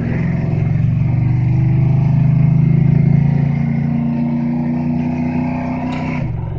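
Chevrolet Malibu's engine pulling hard under acceleration, heard from inside the cabin. Its loud, low note swells to a peak partway through, then dips sharply near the end, as at a gear change.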